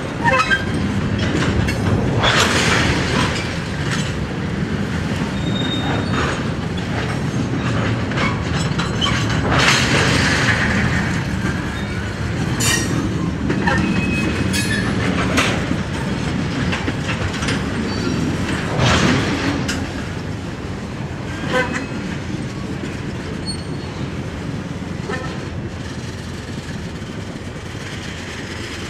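Freight train of tank cars rolling past, the steady rumble of wheels on rail with clickety-clack over the joints. Several brief sharp metallic squeals and clanks cut through it.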